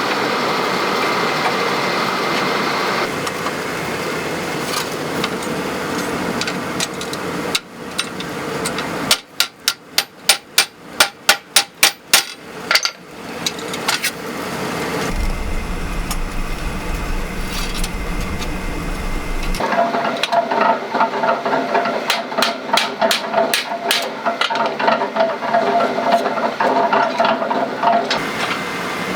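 Hammer blows on steel in a blacksmith's forge: after a stretch of steady workshop noise, a quick run of sharp strikes about three a second, a brief low hum, then a longer run of repeated ringing metal strikes.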